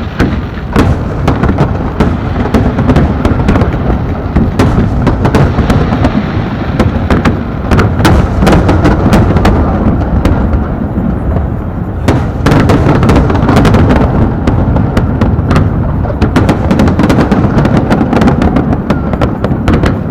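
Fireworks show in full barrage: many shells bursting in rapid succession, sharp cracks over a continuous low rolling rumble of booms. There is a brief lull about twelve seconds in before the bursts pick up again.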